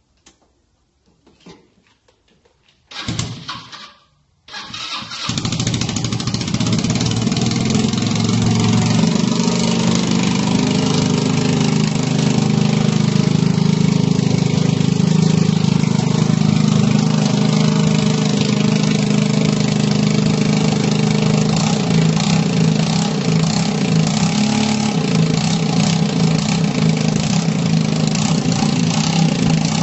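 Keeway Mareix 125 motorcycle engine on a cold start: a few faint clicks, a short first start attempt about three seconds in that dies away, then about a second later the engine catches and settles into a steady idle.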